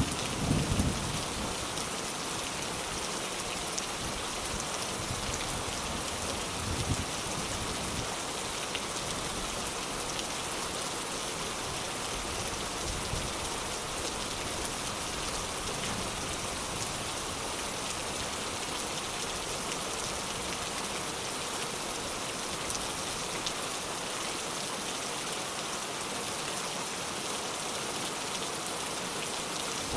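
Steady rain falling, an even hiss of many drops. The tail of a low thunder rumble dies away in the first second.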